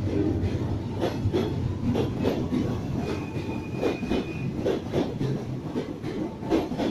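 Freight train flat wagons loaded with rails rolling past, their wheels clattering over the rail joints in a steady rhythm of clicks over a low rumble, with a brief thin wheel squeal about three seconds in.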